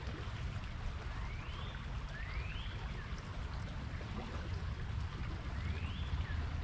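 Small creek running steadily over a shallow riffle, with a low rumble underneath. A bird whistles three rising notes above the water, about a second, two seconds and five and a half seconds in.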